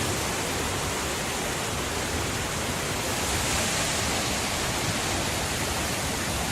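Steady rush of water pouring down a small river waterfall, an even roar that holds level throughout.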